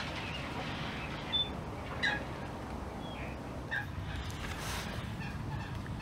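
Several short, high bird calls, some dropping in pitch, the loudest two about a second and a half and two seconds in, over a steady low rumble.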